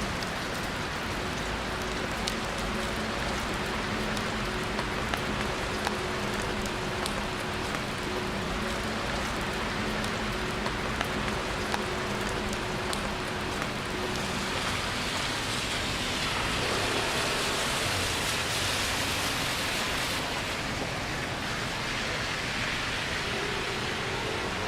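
Steady rain with scattered drop ticks. A faint low steady hum runs through the first half, and a louder hiss swells between about 14 and 20 seconds in.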